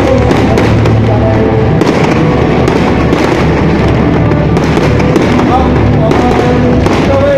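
Aerial fireworks bursting and crackling in a loud, unbroken barrage, with music and voices underneath.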